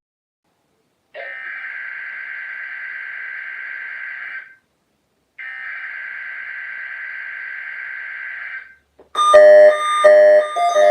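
Emergency Alert System (SAME) header data bursts: two buzzy electronic warbles of about three and a half seconds each, a second apart, signalling the start of an alert. Music with a keyboard begins near the end.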